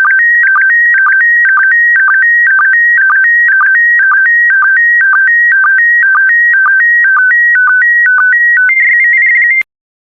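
Slow-scan television (SSTV) signal in PD120 mode: loud warbling tones hopping between pitches, broken by a short sync dip about twice a second, as the last lines of an image are sent. Near the end the pattern settles into a steadier high tone and then cuts off suddenly, ending the transmission.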